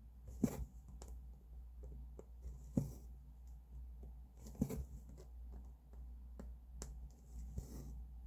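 Cross-stitching: a needle punched through stretched fabric and the thread drawn through, making a sharp click about every two seconds with a soft rasp of thread between. A steady low hum runs underneath.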